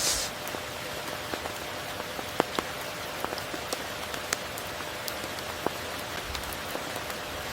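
Steady rain falling, an even hiss with many sharp, separate drops ticking close by. A brief swell of hiss comes right at the start.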